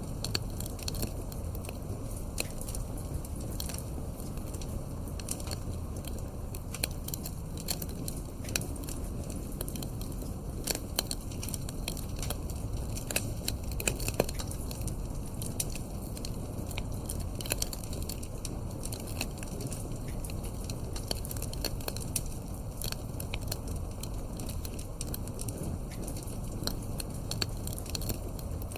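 Wood fire in a fireplace crackling, with irregular sharp pops over a steady low rumble of the flames, a few louder pops about halfway through.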